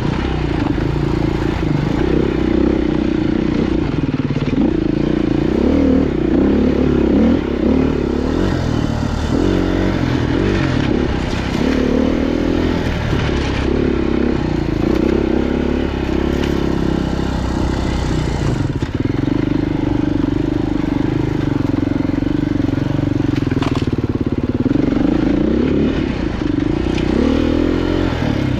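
Off-road motorcycle engine running at low revs, the throttle opening and closing so the engine note wavers up and down while picking through rough, rocky trail; the note holds steadier for a few seconds past the middle.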